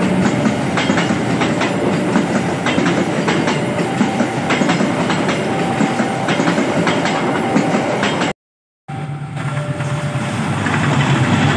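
Train cars running past, their wheels clicking repeatedly over the rail joints, cut off abruptly about eight seconds in by a half-second dropout. After the dropout comes a steady low engine hum, with the noise building toward the end.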